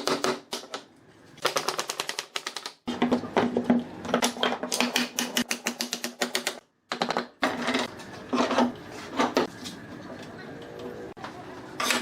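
Rapid runs of sharp mechanical clicks, several a second, over a low steady hum, broken off suddenly twice.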